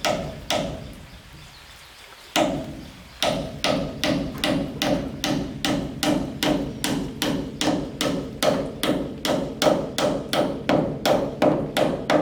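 Hammer blows on wood: one strike, a pause, then a steady rapid run of about two to three blows a second, each with a short wooden ring.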